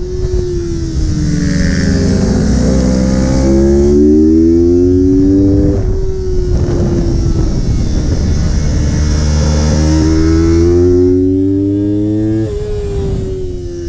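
Yamaha R3 sport bike's parallel-twin engine revving under throttle on track. Its pitch climbs in long rises and falls back sharply about six seconds in and again near the end.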